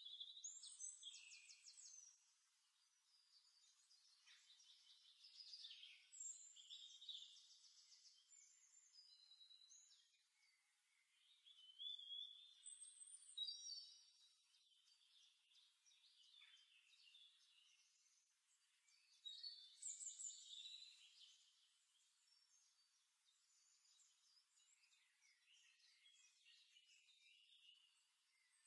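Faint birdsong: high chirps, short whistled glides and rapid trills, sung in phrases every few seconds.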